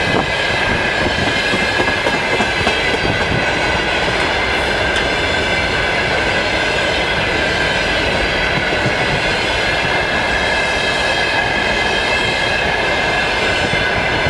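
Freight train rolling past: a steady rumble of wheels on rail with clatter over the rail joints, and a steady high ringing tone from the wheels running over it.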